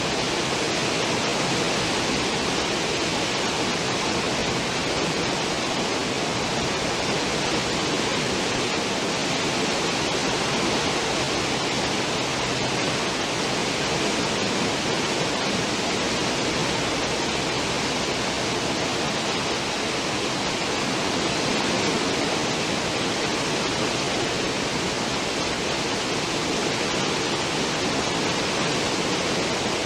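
Cruise ship's stern wake: churning, foaming water rushing behind the hull in a steady, unbroken hiss.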